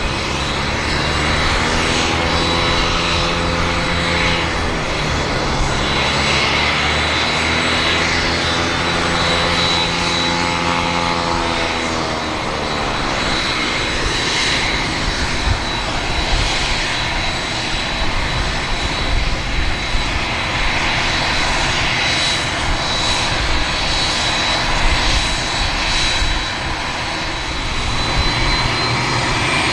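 Cessna 501 Citation I/SP's twin Pratt & Whitney Canada JT15D turbofans running on the ground during an engine test. The sound is a steady jet rumble with a high whine, and the whine rises slightly near the end.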